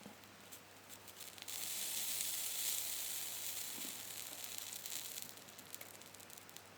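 Soldering flux sizzling as a hot soldering iron heats a copper wire joint on a starter solenoid's hold-in coil. The sizzle starts about a second and a half in and fades away after a few seconds.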